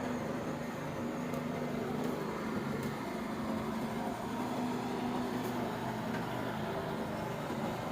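Steady hum of a running engine, with a few faint clicks.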